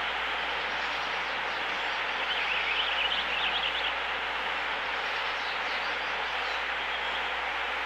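A steady, even rushing noise, with a short run of quick high bird chirps about two to three seconds in.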